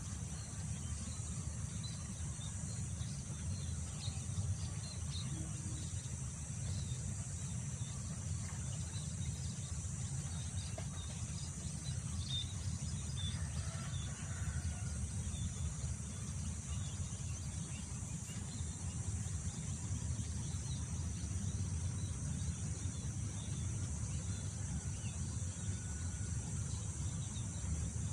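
Outdoor countryside ambience: wind rumbling on the microphone, under a steady high insect chorus, with faint scattered bird chirps.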